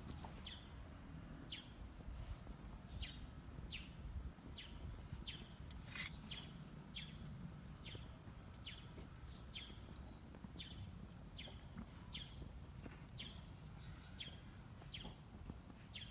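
A bird repeating a short, high, downward-sliding call about once a second, with a single sharp click about six seconds in.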